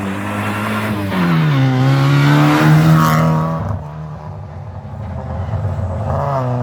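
Rally car engine at high revs going past. Its note drops about a second in, holds and grows loudest just before three seconds, then fades away. Another engine comes up near the end.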